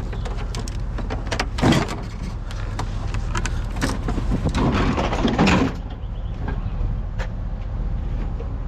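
Knocks, clatter and scraping as a heavy piece of scrap is handled and set down, with a loud bump about two seconds in and a longer scrape or drag around the middle, over a steady low hum.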